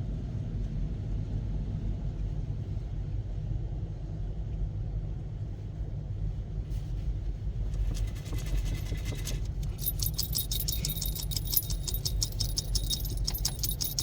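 Steady low rumble throughout. About eight seconds in, a hiss starts, and then a dense run of rapid light clicking and rattling that keeps going.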